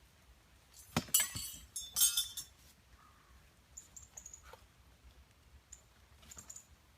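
Hard objects clinking and rattling as they are handled: two bright, ringing clinks about a second and two seconds in, then a few lighter clicks.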